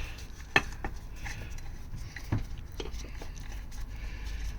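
A few light knocks and clicks from parts and tools being handled on an engine bench. The sharpest are about half a second in and a little after two seconds, over a low steady hum.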